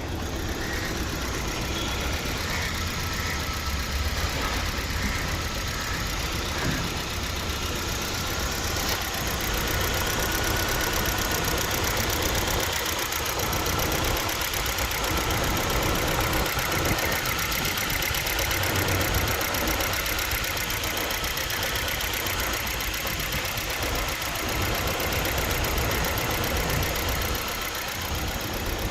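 Hyundai Verna engine idling with a misfire, running steadily with a faint high whine above the engine note.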